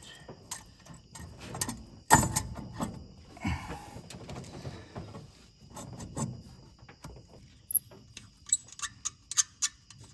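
Hand tools clinking and knocking on metal while the exhaust downpipe is bolted onto a turbo, with one sharp knock about two seconds in and a run of quick ratchet-like ticks near the end.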